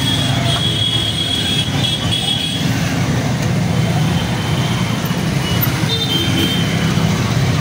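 Several motorcycle engines running at idle in a queue of traffic, a steady low drone.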